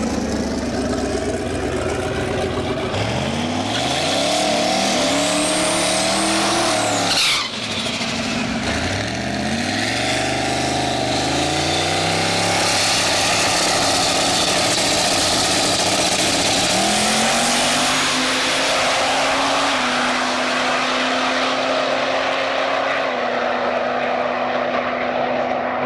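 Drag race car engines revving and accelerating, their pitch rising through several sweeps, with a sudden falling sweep about seven seconds in. Near the end this settles into a steady engine note.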